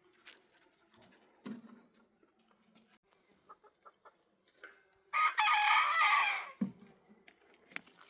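A rooster crowing once, about five seconds in, for about a second and a half. Faint scattered knocks and shuffles around it.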